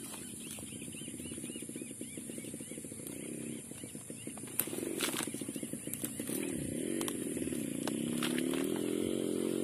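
A small engine running nearby, its pitch wavering and its sound growing louder over the last few seconds. A steady high insect buzz runs underneath, with a few sharp clicks.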